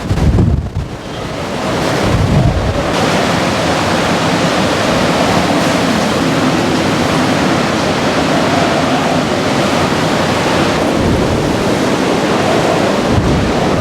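Steady roar of a typhoon at its height, wind and surf together. Low buffeting on the microphone in the first few seconds gives way to an even, continuous roar.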